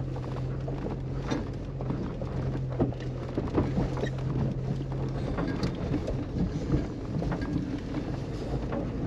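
Jeep Cherokee XJ driving down a rough, rocky dirt road: a steady low engine hum under frequent knocks and rattles. The hum drops away about halfway through while the knocking goes on.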